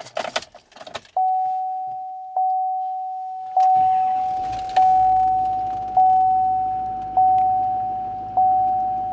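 A GMC truck's warning chime dings over and over, a single note about every 1.2 s. About three and a half seconds in, the freshly tuned Duramax V8 turbo diesel is cranked, catches, and settles into a steady idle under the chimes.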